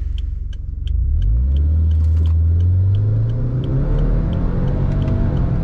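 Subaru Forester tS STI's turbocharged 2.0 L flat-four accelerating hard with its CVT, heard inside the cabin. The engine note swells and rises about a second in and changes pitch around three seconds in. A light ticking repeats about three times a second.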